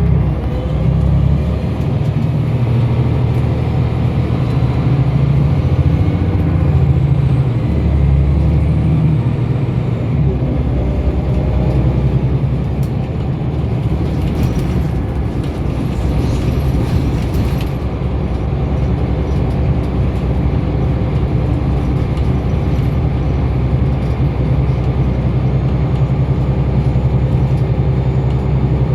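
Scania L94UB bus's diesel engine running under way, its deep low note shifting in steps during the first ten seconds and then holding steady.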